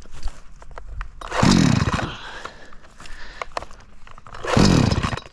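Two-stroke chainsaw revved in two short bursts about three seconds apart, each about a second long and falling back to a low run in between.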